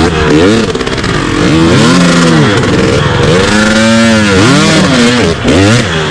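Off-road motorcycle engine revving, its pitch rising and falling several times, with two longer swells and quicker blips near the end.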